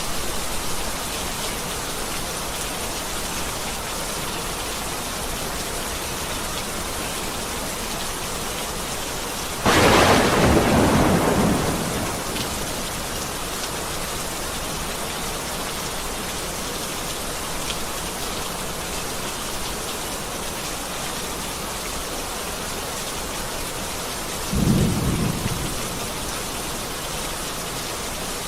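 Heavy rain falling steadily, with a sudden loud thunderclap about ten seconds in that rumbles away over a couple of seconds, and a shorter, lower roll of thunder near the end.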